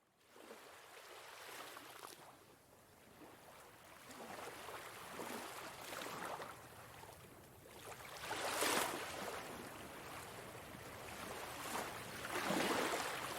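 Sea waves washing onto a sandy beach, each surge rising and falling away every few seconds, the strongest about two-thirds of the way in and another near the end.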